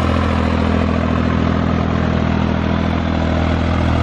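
John Deere tractor's diesel engine running steadily under way, with an even, low engine note.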